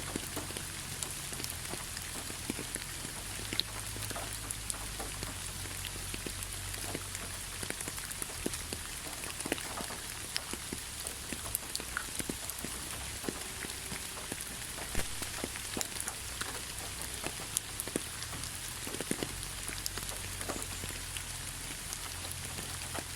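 Steady rainfall: an even hiss with many individual raindrops striking as sharp ticks at irregular intervals.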